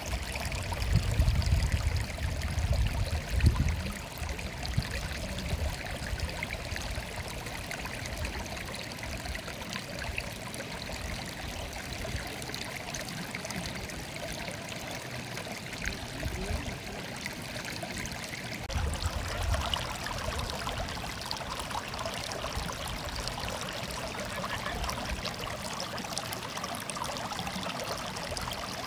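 Stream water murmuring and trickling steadily. Low rumbling swells come in the first few seconds and again about two-thirds of the way through.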